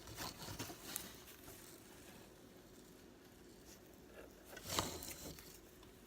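Faint handling noise of a wig in progress being moved about: light rustling and small clicks, with one louder brief rub or brush a little before the end. No sewing machine is running.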